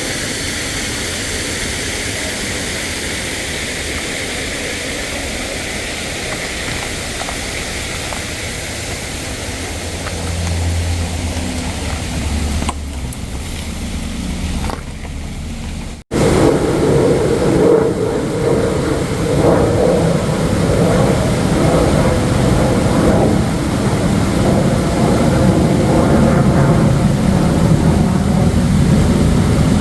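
Rushing water of a mountain valley stream, a steady noise. It cuts out abruptly about sixteen seconds in and comes back louder and fuller.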